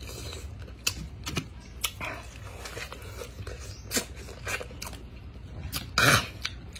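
Close-up mouth sounds of biting and chewing raw pineapple: wet smacks and crunches, scattered irregularly. About six seconds in comes a short, loud vocal cry as he reacts to the pineapple itching his throat.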